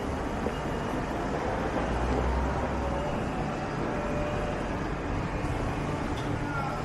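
Street ambience with road traffic, a steady noise of vehicles running past, and a low rumble that swells about two seconds in and fades about a second later.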